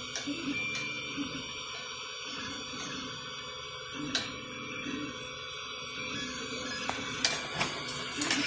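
3D printer running: a steady fan hiss with stepper motors whirring through short repeated moves, and a few light clicks near the end.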